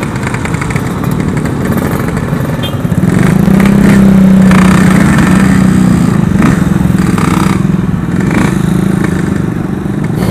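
Yamaha RX-King two-stroke motorcycle engine running while riding, getting louder and holding steady revs about three seconds in, then easing off slightly.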